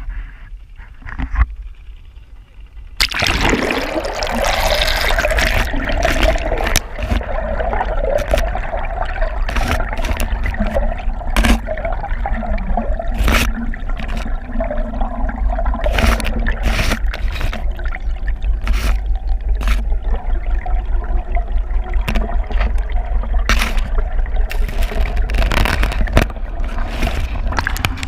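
Water gurgling and sloshing around a camera held under the lake surface, with a constant low rumble and many sharp knocks. It gets suddenly louder about three seconds in.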